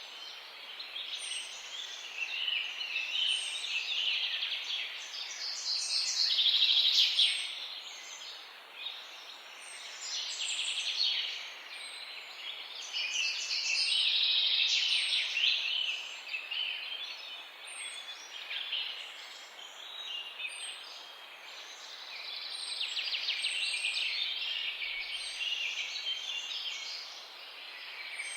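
A morning chorus of many small birds chirping and singing together, the chorus swelling and fading every several seconds. Through it, one bird repeats a short, very high note about every second or two.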